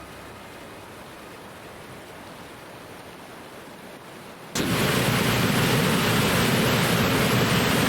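Rushing water of a creek waterfall running high with spring flow: a steady hiss, faint at first, that jumps suddenly much louder about four and a half seconds in.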